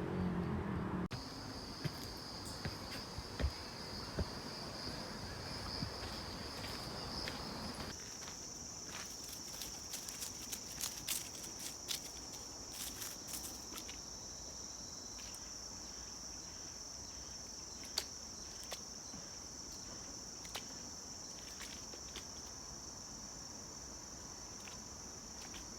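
Insects giving a steady, high-pitched drone, which shifts slightly higher in pitch about eight seconds in, with scattered light clicks and taps over faint outdoor background noise.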